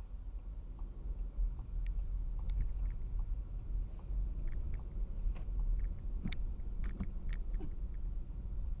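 Steady low rumble of a car driving, heard from inside, with scattered sharp clicks and ticks, most of them between about six and seven and a half seconds in.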